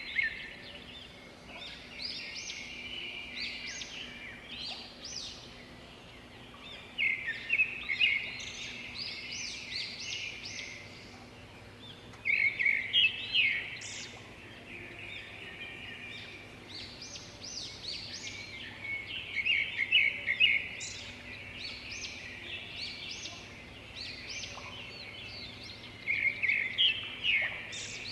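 Birds singing: a loud phrase of rapid, fast-repeated notes comes about every six seconds, with softer chirps and calls between.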